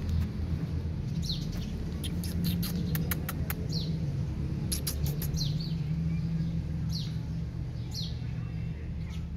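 Small birds chirping: short falling chirps every second or so, with a quick run of sharp clicks a couple of seconds in. Under them runs a steady low rumble.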